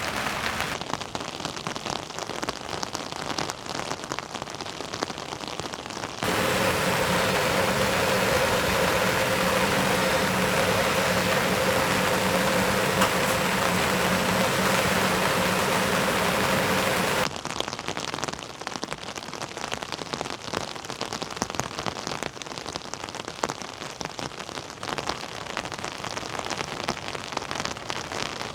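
Heavy rain falling, with dense drops pattering on surfaces. For about eleven seconds in the middle the sound switches abruptly to a louder, thicker rush with a faint steady hum, then cuts back to the lighter patter.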